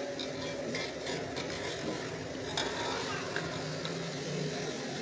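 Okra sizzling in hot oil and masala in a pan while being stirred, with a few light scrapes of the spoon. The okra is frying to cook off its sliminess.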